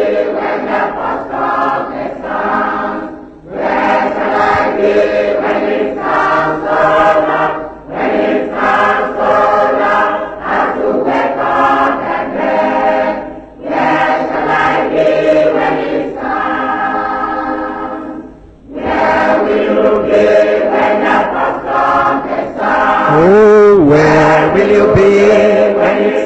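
A choir singing a gospel hymn in phrases a few seconds long, with short breaks between them. Near the end a voice slides up in pitch.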